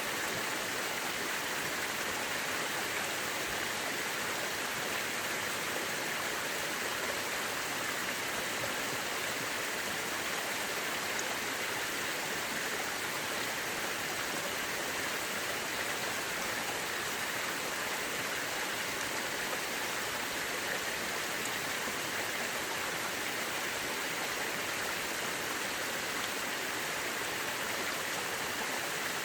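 Mountain river rushing over rocks: a steady, even wash of water that does not change.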